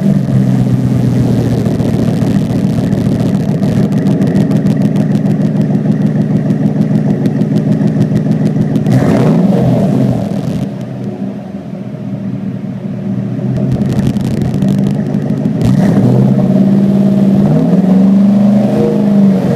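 Ford Raptor engine through a Metal Mulisha exhaust with no resonator, running at idle just after a cold start. Its pitch rises and falls in a short rev about halfway through, and again in a few revs near the end.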